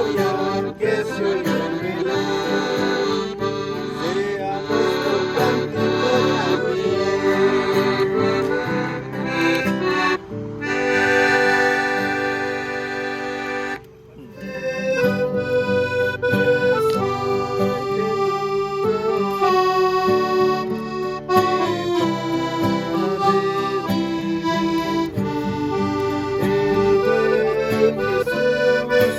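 Instrumental music with an accordion sound playing a melody over chords. About ten seconds in, a chord is held for a few seconds; the music then breaks off for a moment and carries on.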